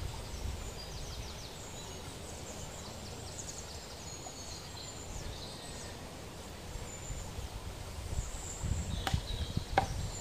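Small birds chirping and trilling in short repeated calls over a steady low rumble, with two sharp clicks near the end.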